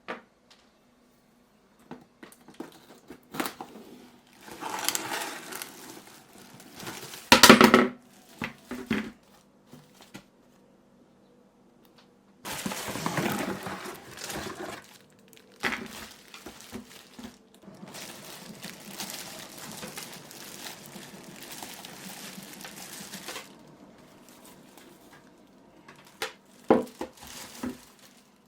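Packaging being handled and unpacked: irregular crinkling and rustling with scattered knocks and clicks, and one loud knock about seven and a half seconds in.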